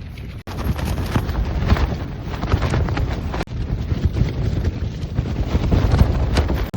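Gale-force wind buffeting a small tent: the fabric flaps and snaps in quick irregular strokes over a steady low rumble of wind on the microphone.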